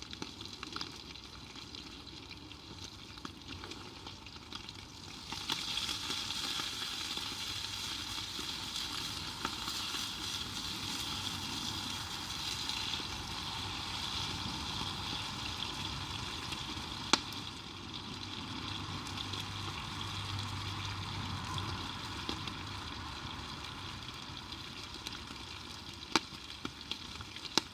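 Food sizzling in a pan over a campfire, a steady hiss that grows louder about five seconds in, with a few sharp pops.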